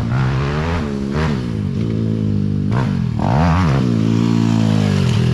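Pitbike engine revving under riding. Its pitch drops and climbs again several times as the throttle is rolled off and back on, with a sharp dip about three seconds in, then holds high near the end.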